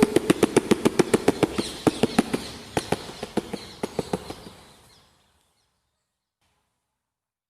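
Rapid sharp percussive clicks, a few a second, gradually thinning and fading out over about five seconds, then silence.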